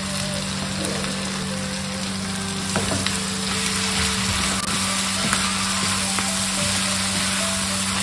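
Chicken pieces, onions and spices sizzling as they fry in a non-stick wok, stirred with a wooden spatula that scrapes and knocks against the pan a few times.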